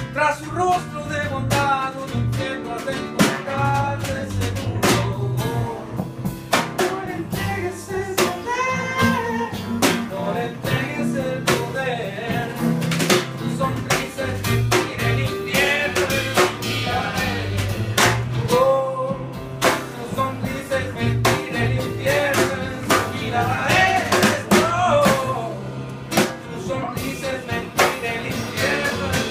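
Live rock band playing an instrumental passage, electric guitar leading over drum kit and bass, as recorded on a phone.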